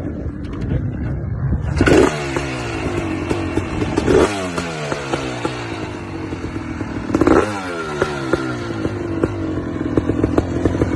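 Dirt bike engine running and revving hard: the revs climb sharply about two seconds in, again around four seconds and again near seven seconds, each time falling away in pitch afterwards.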